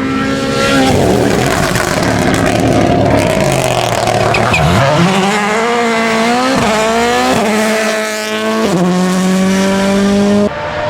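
Rally car engine at full throttle, its pitch climbing and dropping back with quick gear changes, over a rush of tyre noise in the first half. The sound changes abruptly just before the end.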